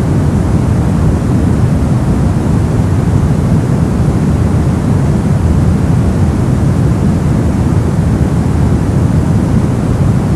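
Brown noise: a steady, deep rushing hiss, heaviest in the low end and dull in the highs, with no change.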